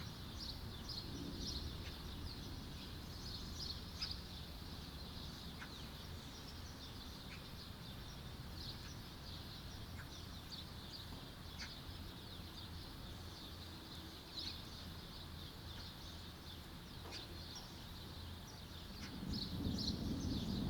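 Small birds chirping and twittering over a faint, steady background. Near the end a roll of thunder begins to rumble and grows louder.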